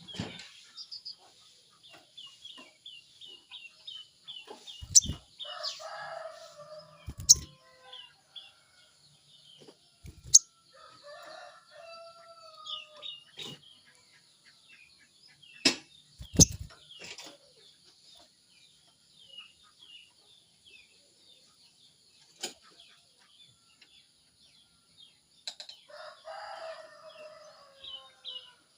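Rapid runs of short, high chirping notes from a songbird, with a rooster crowing three times and a few sharp thumps.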